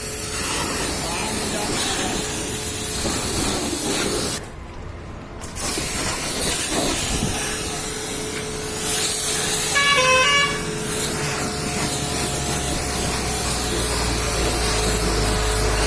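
Steady hiss of a pressure-washer jet spraying a truck, briefly dropping away about four and a half seconds in. A short horn-like toot sounds about ten seconds in.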